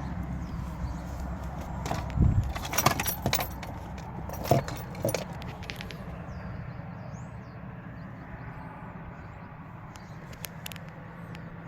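A run of sharp clicks and knocks, loudest in the first half, over a low rumble that fades out about halfway; after that only a few scattered clicks.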